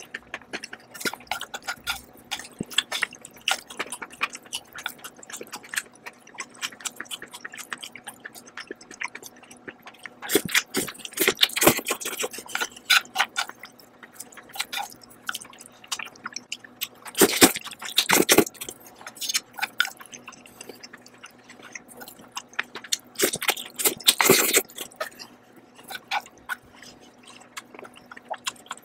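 Close-miked chewing of stir-fried instant noodles: a steady run of small wet clicks and smacks. Three louder stretches of slurping come about a third of the way in, past the middle, and near the end.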